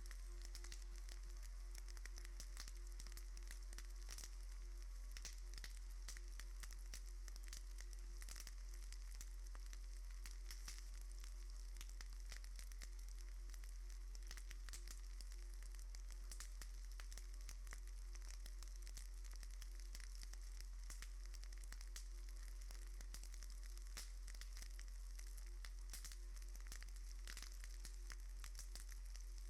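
Faint, steady crackling hiss with scattered small clicks over a constant low hum, unchanging throughout.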